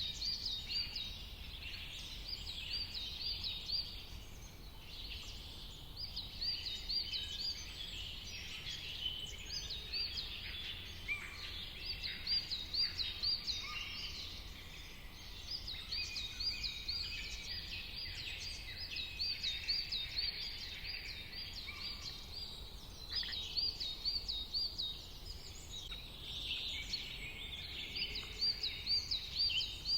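Many wild birds singing and chirping at once, with short, quickly repeated high phrases coming back every few seconds, over a steady low rumble.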